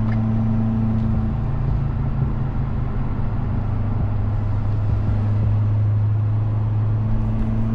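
Steady drone of a vehicle being driven, heard from inside: engine hum with a constant low pitch over road noise.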